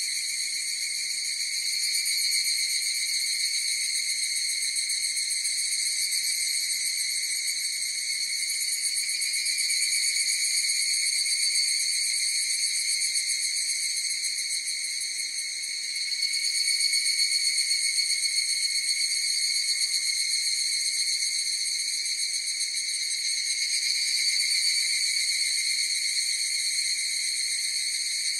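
A chorus of higurashi evening cicadas (Tanna japonensis) calling in a continuous high, shrill trill. It swells and eases gently several times without a break.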